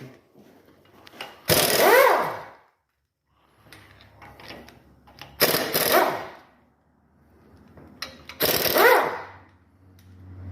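Impact wrench hammering at the flywheel bolts in three bursts of about a second each, its motor whine rising and falling in each burst, as the bolts are undone to take the flywheel off.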